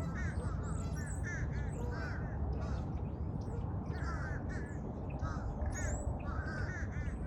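Crows cawing in short runs of repeated calls, several times over, with some higher chirps and a steady low rumble underneath.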